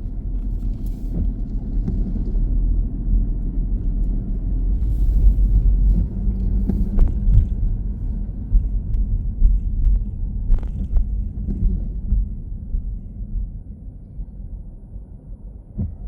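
Car driving, a steady low road-and-engine rumble, with a few short knocks or ticks; the rumble eases off over the last few seconds.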